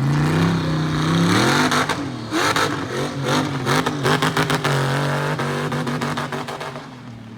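Monster truck engine revving hard, its pitch climbing over the first two seconds, then surging up and down in quick throttle blips with a run of sharp cracks before it dies down near the end.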